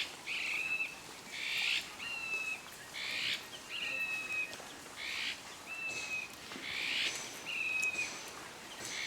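A bird calling over and over, about every one and a half seconds: each call is a harsh, raspy note followed by a clear whistled note that falls slightly.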